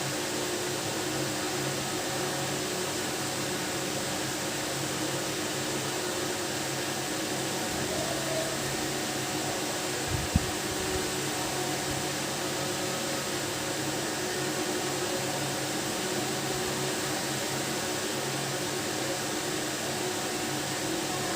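A steady machine hum and hiss, with a single sharp click about ten seconds in.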